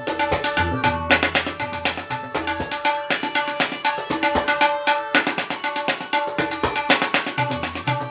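Tabla playing a fast, dense solo passage in teentaal: rapid strokes on the treble drum, with the bass drum's deep ringing strokes in the first second and again near the end, dropping away in between.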